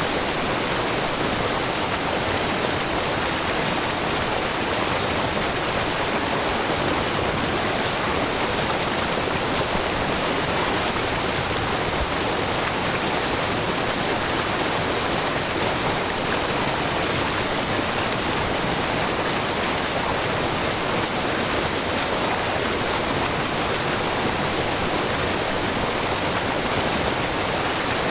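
Shiraito Falls, a low, wide curtain of spring water pouring over a rock face, rushing steadily together with a babbling brook. The sound is an even, unbroken wash of water noise with no single splash standing out.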